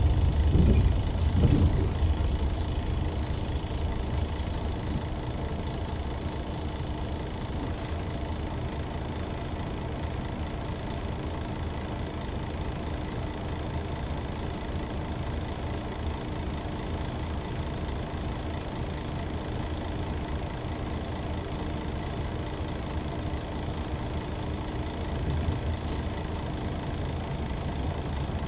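Hyundai D6CC Powertec 380 six-cylinder diesel engine of a Hyundai Universe coach. It is louder for the first couple of seconds, eases down over the next few, then runs at a steady idle.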